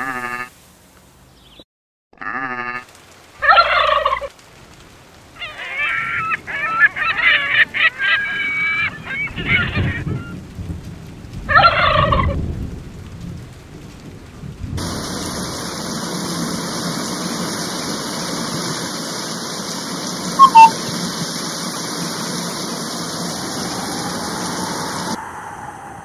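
A run of bird-like honking and gobbling calls, crowded together in a dense burst in the middle. These give way to a steady rushing noise, broken by a brief sharp call about two-thirds of the way through.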